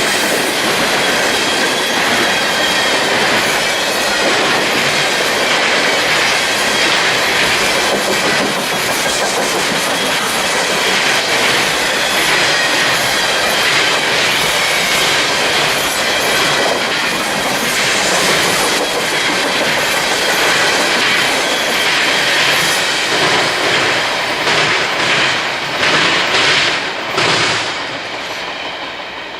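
Railroad cars rolling past at close range, their wheels clicking over the rail joints with some squealing. The sound breaks up and fades near the end as the end of the train goes by.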